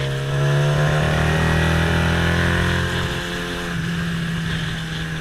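Motorcycle engine accelerating, its pitch rising steadily for about three seconds, then easing off as the throttle closes.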